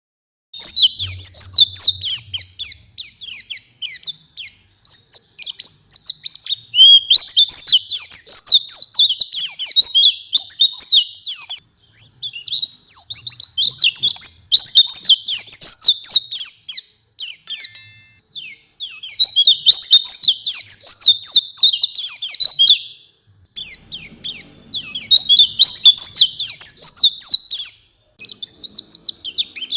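White-eye (pleci) singing in full, energetic voice: long runs of rapid, varied twittering phrases broken by short pauses.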